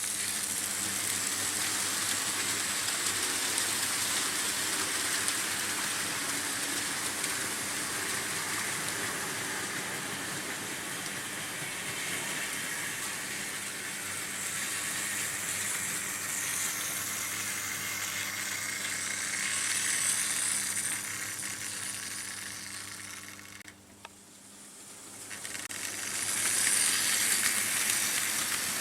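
Märklin H0 model trains running on pressed-steel M-track: a steady rattling rush of metal wheels on the rails over a low hum. The sound fades sharply about three-quarters of the way through and swells back up near the end.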